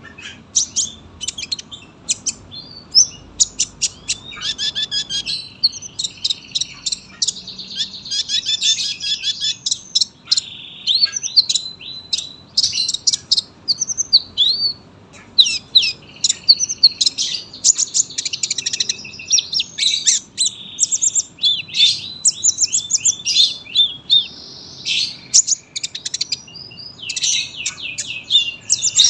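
Olive-backed sunbird (kolibri ninja) in full song, singing without pause: a long run of rapid high chirps, trills and fast rattling phrases with only brief breaks.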